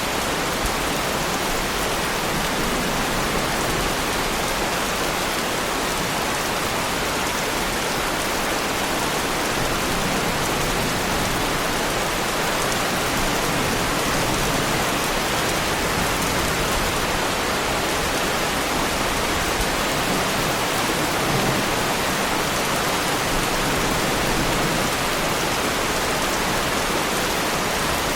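Heavy rain falling steadily on the bodywork of a Lamborghini Huracán, an even, unbroken hiss of drops.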